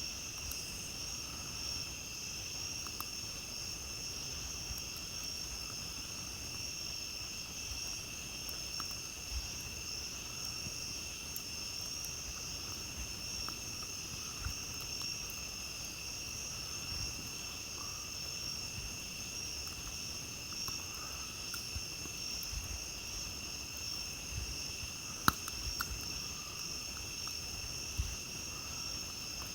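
A chorus of night insects trilling steadily in two high, unbroken bands, over a low rumble, with a few sharp crackles and pops from a campfire, the loudest one near the end.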